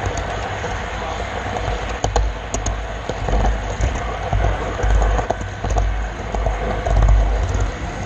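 Model railroad camera car rolling along the track, a steady rolling rumble that swells now and then, with a few sharp clicks about two seconds in.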